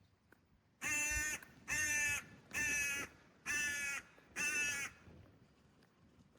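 A crow cawing five times in a row, each caw about half a second long and about a second apart.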